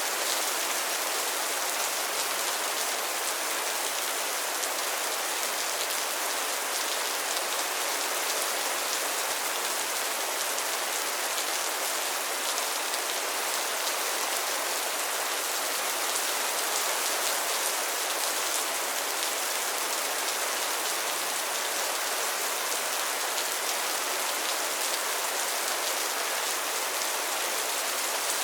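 Steady rain falling on a pond and its lily pads: an even hiss of many small drops pattering on water and leaves.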